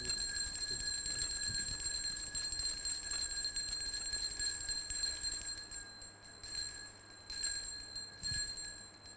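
Altar bells rung at the elevation of the chalice during the consecration: a continuous high jingling ring that breaks into a few separate shakes about six seconds in and then stops near the end.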